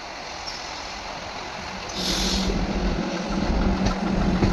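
Diesel engine running, getting louder about two seconds in with a short burst of hiss, then a steady low hum and rumble.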